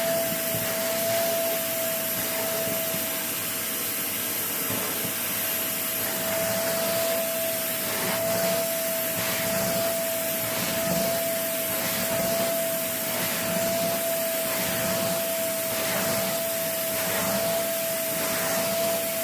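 Vacuum cleaner running steadily with a constant whine, sucking crisp puffs off bedding. About halfway through, faint repeated rustles come in as the nozzle moves over the bed.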